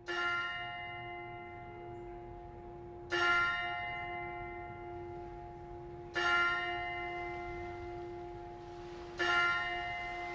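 A single bell tolling slowly: four strokes of the same note about three seconds apart, each ringing on and fading before the next. It sounds as a death knell.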